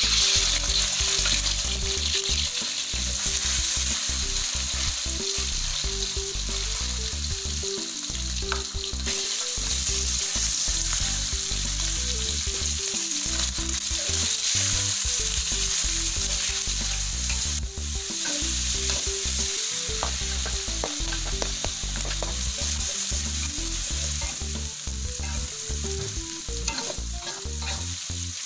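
Diced chicken sizzling in hot oil in a wok, starting suddenly as it goes in, with a steady loud sizzle. A metal spatula scrapes and taps against the wok as the chicken is stirred while it fries toward half cooked.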